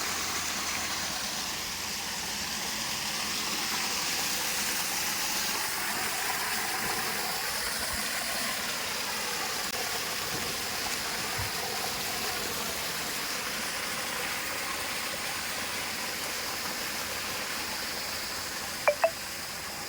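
Steady outdoor hiss with faint wavering tones underneath, and two short sharp clicks near the end.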